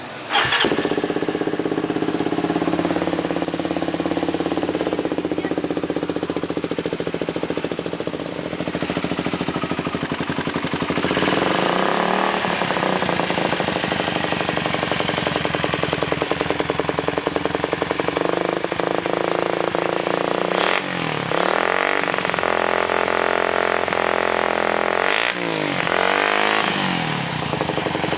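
Suzuki Satria FU150's single-cylinder four-stroke engine exhaling through an aftermarket R9 Aragon slip-on silencer, starting up right at the start and settling into a steady idle. It is revved up and back down a few times in the second half.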